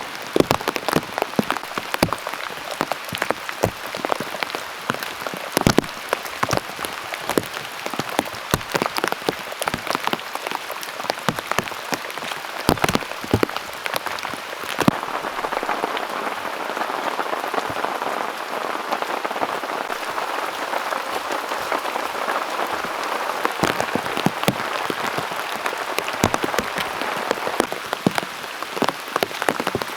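Heavy rain in a downpour: a steady hiss with many sharp individual drop impacts, the hiss thickening and the separate impacts thinning from about the middle until near the end.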